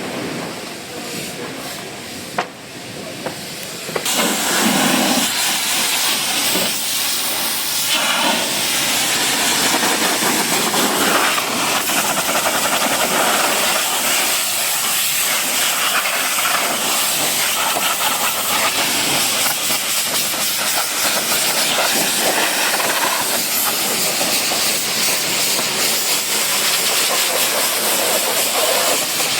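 Steady, loud hiss of a high-pressure jet at a car wash, starting abruptly about four seconds in, with a couple of sharp clicks before it.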